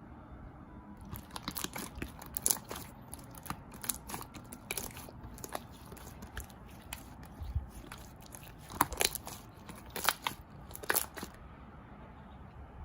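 Shine Muscat grapes being bitten and chewed: a run of crisp crunching bites that starts about a second in and stops shortly before the end.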